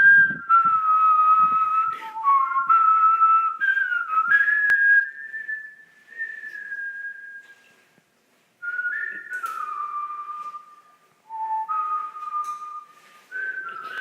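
A whistled melody in the song's breakdown: single clear notes held and sliding between pitches, with no beat underneath, pausing for about a second near the middle.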